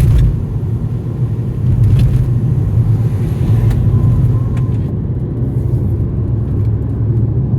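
Car driving, heard from inside the cabin: a steady low rumble of engine and tyre noise, with a few faint short knocks.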